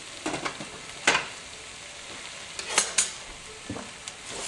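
Spinach, onion and garlic sautéing in a nonstick pan with a steady sizzle, broken by several sharp clicks and knocks as a glass lid is set on the neighbouring steamer pan and a wooden spoon stirs and taps against the pan.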